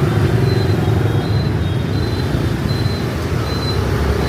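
Busy street traffic dominated by motorbikes: a steady rumble of small engines passing close by. A faint short high beep repeats about once a second.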